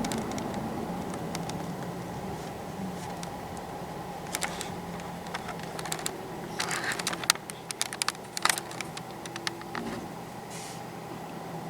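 A steady mechanical hum throughout, with an irregular run of light clicks and taps from about four seconds in to about nine seconds in.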